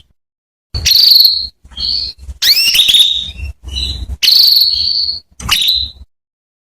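Female canary calling: a run of about six short high chirps and buzzy trills in quick succession, the longest trill a little past the middle.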